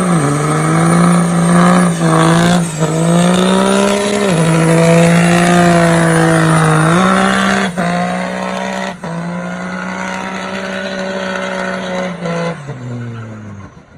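Truck engine, a diesel tuned for rolling coal, held at high revs. Its pitch steps down and back up several times, with a thin high whine above it. Near the end the revs drop away.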